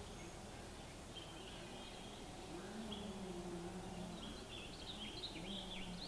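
Small birds chirping in short high notes, busiest in the second half, over faint outdoor background noise. A low steady hum comes in about two and a half seconds in, drops away, and returns near the end.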